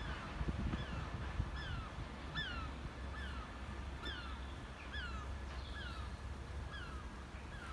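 A bird calling over and over, a short call that falls in pitch repeated a little more than once a second, with a low rumble underneath.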